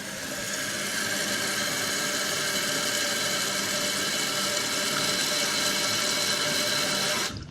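Kohler Wellworth toilet tank's fill valve running as the tank refills: a steady hiss of water with a faint whine. It shuts off suddenly near the end as the tank reaches full.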